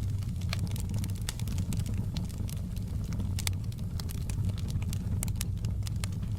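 Wood fire in a fireplace crackling, with sharp pops at irregular intervals over a steady low rumble of the flames.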